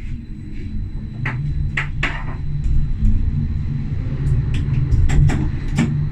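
Tram running along the track: a steady low rumble that grows louder, with several sharp clacks and knocks from the wheels on the rails, a cluster of them near the end.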